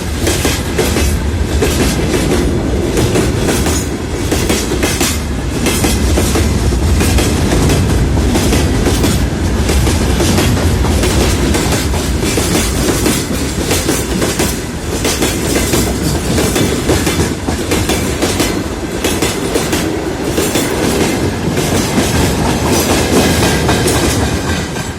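Freight train wagons rolling past, wheels clattering steadily over the rail joints with a continuous rumble of running gear.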